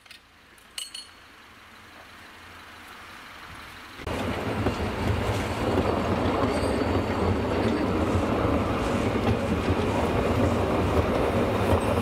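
A hand points lever clanks with a short metallic ring as the points are thrown. About four seconds in, a narrow-gauge steam train's coaches and wagons rumble and clatter steadily past close by over the rail joints, with the locomotive working at the head of the train.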